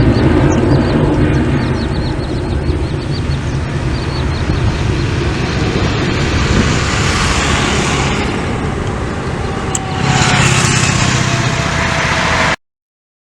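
Boeing 737-800's CFM56 jet engines at takeoff thrust: a loud, steady roar that swells again about ten seconds in, then cuts off abruptly near the end.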